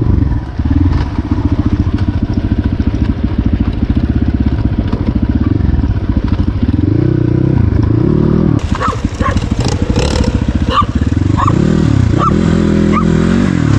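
Dirt bike engine running, revving up and back down twice in the second half.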